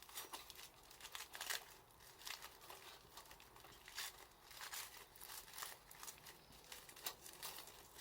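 Faint wood-fire crackling: irregular sharp pops and ticks.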